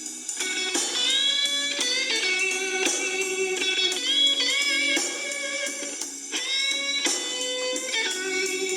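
Electric blues guitar solo: sustained single notes, many bent up in pitch, a new phrase every second or so.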